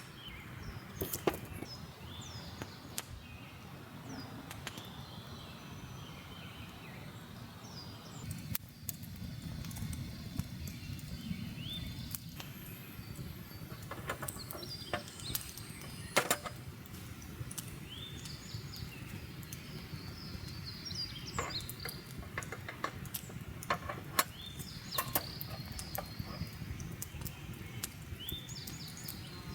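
Birds chirping on and off, over a low steady rumble with scattered sharp clicks and pops.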